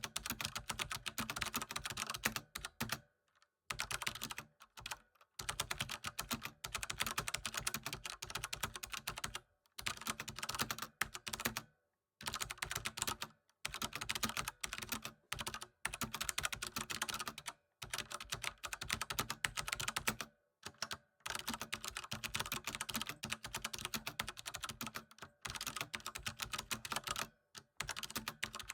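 Typing on a computer keyboard: fast, continuous runs of key clicks broken every few seconds by brief pauses.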